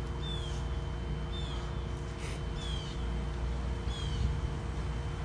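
A bird calling a short, high, downward-slurred note four times, about a second apart, over a steady low background rumble.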